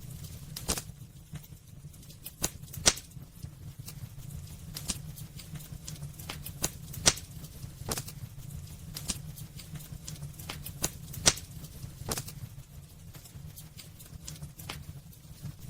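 Wood fire crackling in a fireplace: irregular sharp pops and snaps, three of them much louder than the rest, over a low steady rumble.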